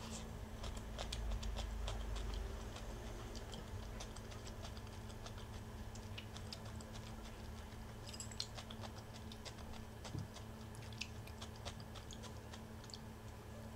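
Close-up chewing of a Vietnamese rice-paper spring roll filled with raw vegetables: a run of small, irregular crunches and clicks, over a steady low hum.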